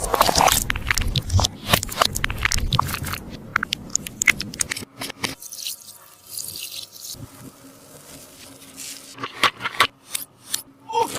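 A sticky taba squishy, a squishy ball wrapped in tape, being squeezed and handled, giving dense sticky crackling and crunching for the first few seconds. After a quieter stretch, a run of sharp crackles comes near the end.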